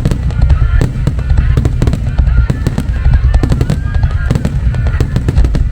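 Fireworks finale barrage: many rapid, overlapping bangs and booms merging into a continuous rumble, with music playing along.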